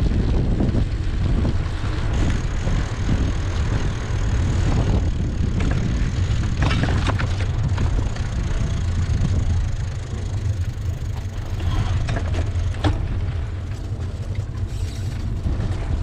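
Steady low rumble of wind on the microphone and a moving bicycle's ride, with scattered rattles and clicks, a cluster of them about five to seven seconds in and one sharp click near thirteen seconds.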